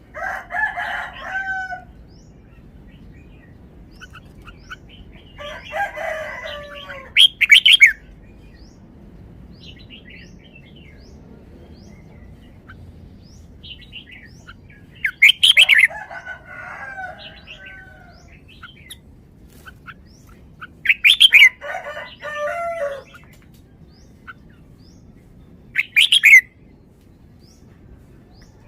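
Red-whiskered bulbul singing in short, bubbling warbled phrases, about five bursts separated by pauses of several seconds, each with a loud sharp note.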